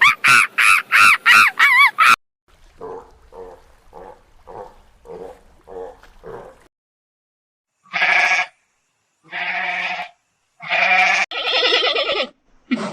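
Sheep bleating: four long, loud bleats of about a second each in the second half. They are preceded by about seven soft, short animal calls, and at the very start by a quick run of high, wavering pulsed calls.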